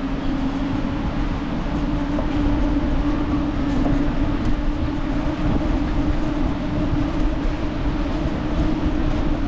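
Steady riding noise from a moving bicycle: a low rumble with a steady hum running underneath and a few faint ticks.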